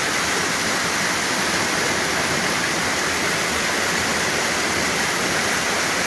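Floodwater rushing through a swollen creek during a flash flood: a steady, loud, unbroken rush of water.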